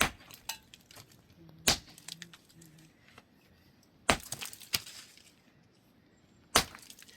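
A handful of sharp, loud cracks or knocks at irregular intervals, about five in all, with quiet between them.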